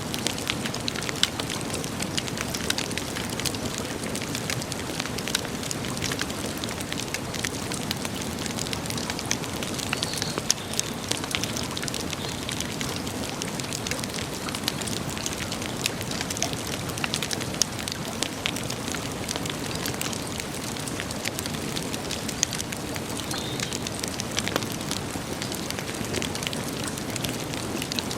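Wood campfire burning, crackling with many small sharp pops over a steady rush.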